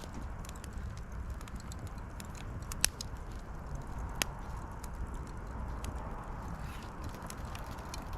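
Wood fire crackling, with scattered sharp pops over a steady low rumble; the loudest pop comes about three seconds in.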